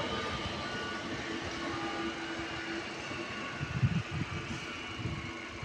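Electric passenger train pulling away past a level crossing, its running noise slowly fading, with a cluster of low thumps about four seconds in.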